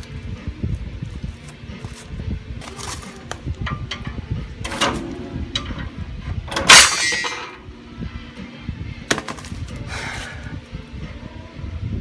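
Metal clangs and knocks from working a stock big-block front coil spring that is stuck in its pocket on the lowered lower A-frame: about five separate hits, the loudest and longest about seven seconds in.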